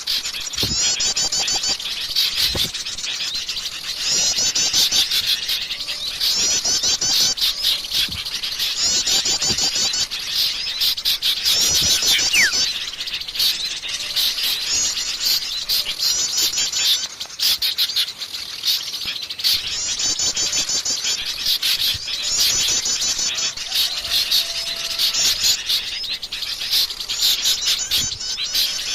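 Wild forest birds singing: one bird repeats phrases of fast, high trills, each a second or so long with pauses between, over a steady background of other chirping calls.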